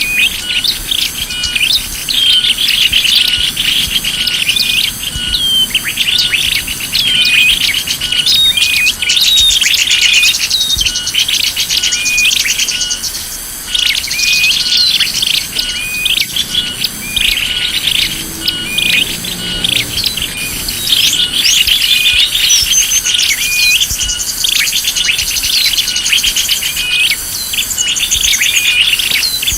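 Lure-call recording of small songbirds: many short, high chirps and twitters overlapping in a dense, continuous chatter, made to draw small birds in.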